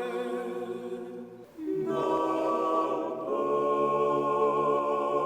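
Choir singing unaccompanied: a held chord fades away about a second and a half in, and after a brief pause a new chord begins and is held.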